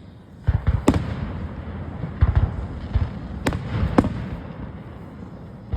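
Fireworks display: a run of about eight sharp bangs at uneven spacing, starting about half a second in and ending around four seconds in.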